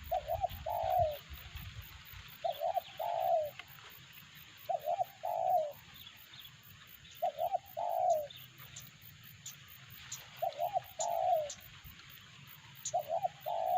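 Spotted dove (terkukur) cooing, its phrase repeated six times about every two seconds: a quick double note, then a longer, falling coo. Faint, sharp high ticks join in during the second half.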